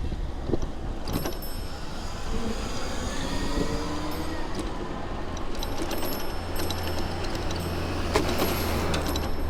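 Street traffic heard from a moving bicycle: a motor vehicle goes by with an engine tone that rises and falls, over steady low road rumble and scattered sharp ticks.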